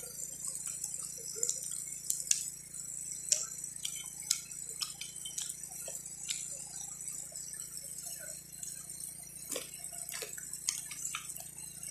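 Campfire of sticks and leaves crackling, with irregular sharp pops, over the steady low hum of a generator engine running.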